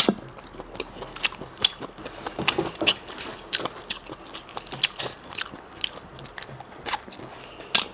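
Close-up sounds of a person biting and chewing steamed seafood: wet mouth sounds broken by many irregular sharp clicks and snaps, the loudest right at the start.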